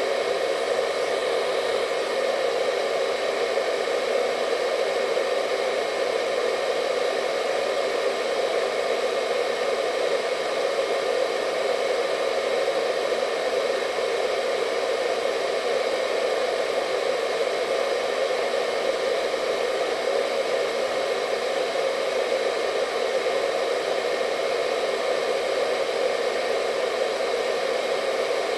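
Hair dryer running steadily: a constant rushing airflow with a faint motor whine, unchanging in level.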